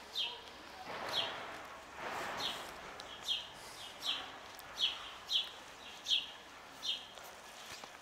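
A songbird chirping over and over, short falling notes at about one a second.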